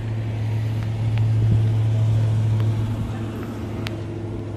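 A car engine idling steadily, swelling a little louder in the middle.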